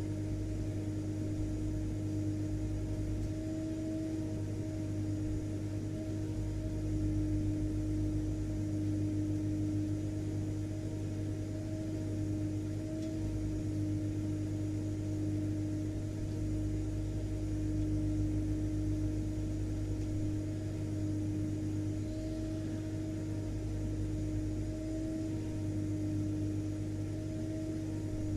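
Vacuum cleaner motor running steadily: a constant drone with a low hum and a steady mid-pitched whine over an even rush of air.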